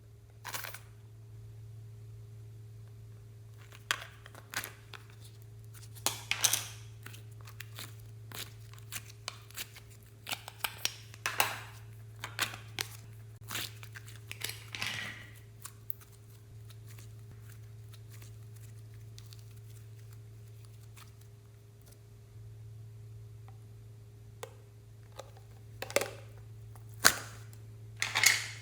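Slime being squeezed and stretched by hand: irregular sticky clicks, crackles and small pops in clusters, with a long quiet gap in the middle and a few sharp pops near the end. A steady low electrical hum runs underneath.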